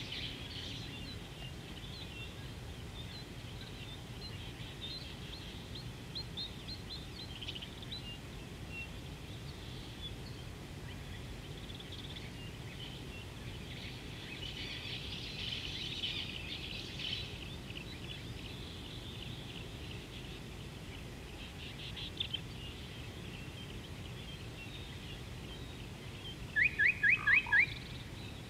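Birds chirping and calling over a low, steady outdoor rumble, busiest around the middle. Near the end one bird gives a loud run of five quick rising notes, about five a second.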